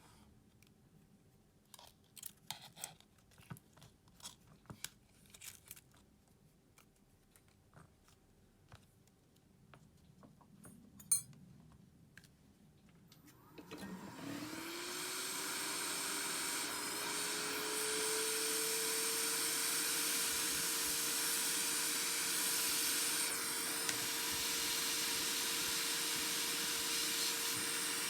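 Small tools clicking and tapping on a phone's parts, then a small electric blower switches on: its motor whine rises over a few seconds and then holds steady under a loud hiss of air.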